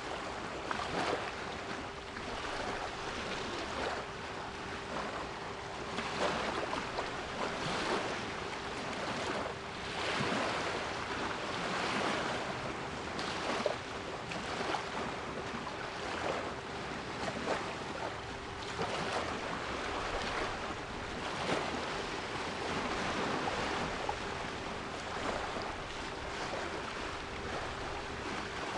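Sea waves washing and breaking in a steady surge, with a steady 396 Hz pure tone humming underneath.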